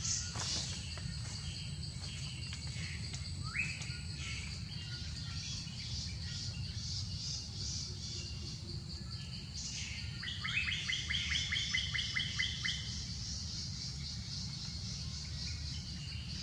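Forest birds calling: a single rising whistle about three seconds in, then a rapid trill of repeated notes lasting about three seconds near the middle. Behind them runs a steady, high-pitched pulsing background chorus over a low, steady rumble.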